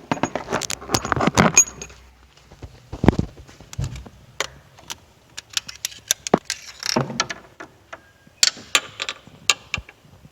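Metal hand tools and parts clinking and clicking as they are handled: a dense clatter in the first couple of seconds, then scattered sharp clicks and short clusters of clinks.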